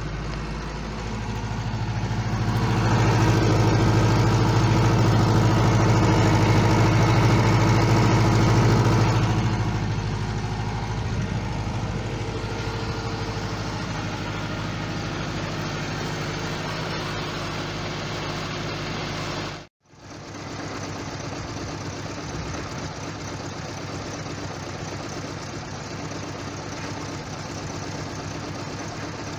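1987 Subaru GL's carbureted EA82 1.8-litre flat-four engine running at idle after a cold start. It swells louder for about seven seconds from about two seconds in, then settles back to a steady idle; about two-thirds through the sound cuts out for a split second and comes straight back.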